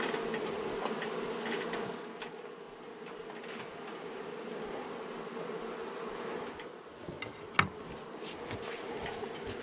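Honey bees from an agitated colony buzzing in a steady hum, making a lot of noise. Scattered light clicks run through it, with one sharp knock about three-quarters of the way through.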